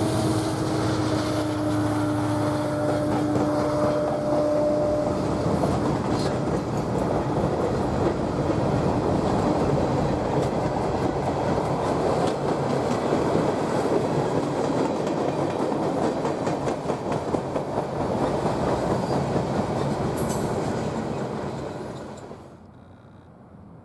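Train cars rolling past on the rails with a steady rumble and clickety-clack. A held tone fades out during the first few seconds, and the sound cuts off abruptly near the end.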